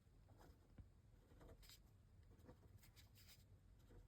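Faint scratching of a fine-liner pen drawing on paper, a few short strokes.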